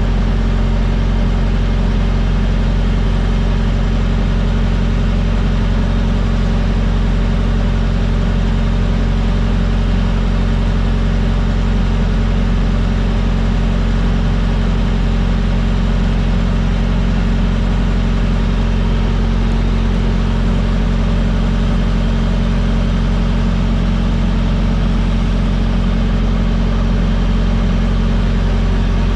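Semi truck's diesel engine running with a steady low drone that does not change.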